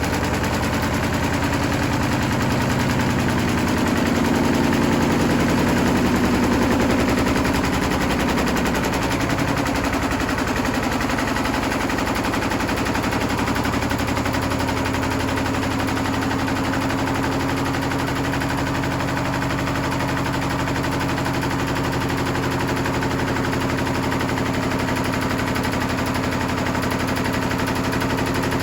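Hotpoint Smart Tech WMFUG742 washing machine running with its drum turning fast: a brick inside clatters rapidly and continuously against the drum over a steady motor whine. It grows louder and its pitch shifts about four to eight seconds in, then settles.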